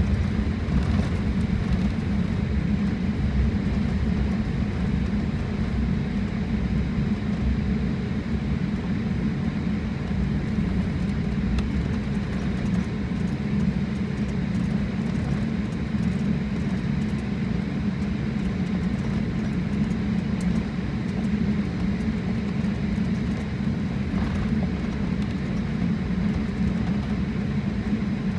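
Steady low rumble of a jet airliner heard from inside the cabin: engine and airflow noise, even throughout.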